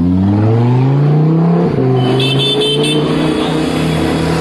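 Sports car engine accelerating, its pitch rising for a second and a half, then a brief break before it holds a steady pitch. Four short high beeps sound about halfway through.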